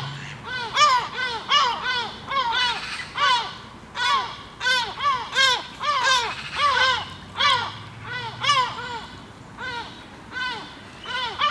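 A flock of birds giving short, harsh alarm calls in a rapid, overlapping run of several calls a second, each call rising and then falling in pitch. These are warning and mobbing calls aimed at a perched bird of prey, a Harris's hawk.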